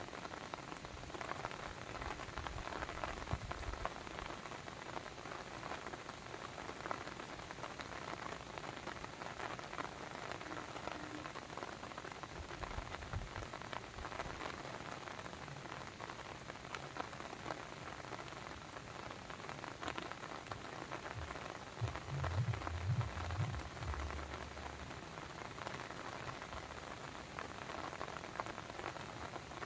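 Steady, dense patter of water, like rain falling on a surface or a brook babbling, with low rumbles rising out of it now and then, the strongest about three-quarters of the way through.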